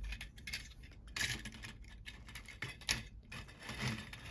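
Small plastic LEGO parts being handled and moved about, giving irregular light clicks and rattles, the sharpest about a second in and just before three seconds.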